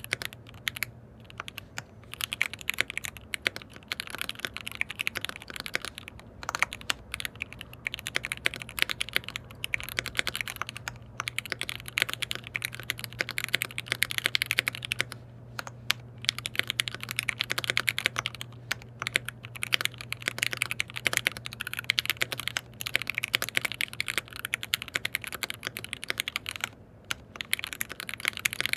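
Typing on a KBD67 Lite R3 mechanical keyboard with lubed linear switches and lubed Durock V2 stabilisers: fast runs of key clicks broken by short pauses, over a steady low hum.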